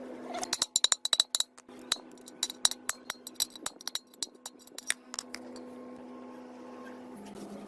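Small metal parts clinking and tapping against each other: a quick run of bright, ringing clinks that thins out after about five seconds, over a steady low hum.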